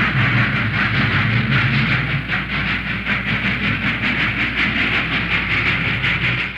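Train working in a railyard: a steady hiss over a low rumble, the rumble easing after about two seconds, with a faint quick rhythmic clatter. The sound cuts off abruptly at the very end.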